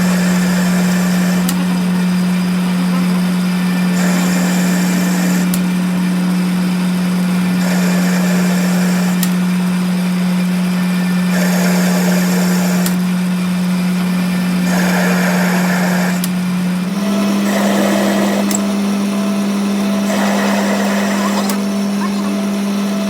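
A machine tool's electric motor running with a steady hum that steps slightly higher about 17 seconds in, with bursts of scraping cutting noise coming and going every second or two as metal is worked.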